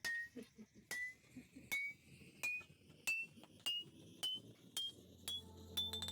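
Hammer striking steel on an anvil, about ten evenly spaced blows, each with a short metallic ring that rises in pitch from blow to blow. Low background music comes in near the end.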